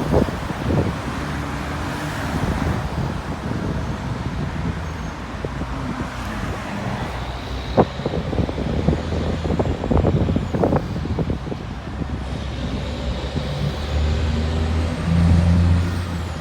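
Highway traffic noise: cars and trucks running past with a steady low rumble, a few sharp knocks partway through, and a heavy engine running close by, loudest near the end.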